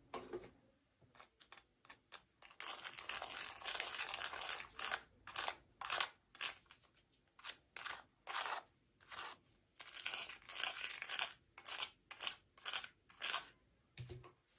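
Packaging being crinkled and torn open by hand in irregular bursts: two longer crackling stretches and many short crinkles, about two a second. A soft low thump comes near the end.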